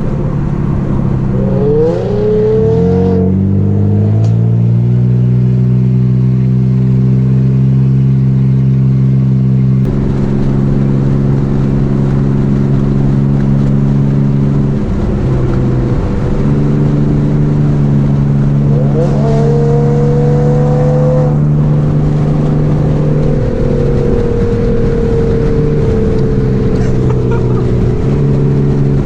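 A car's engine and exhaust droning steadily while driving at speed. The pitch climbs and settles higher a few seconds in, then shifts a few more times along the way.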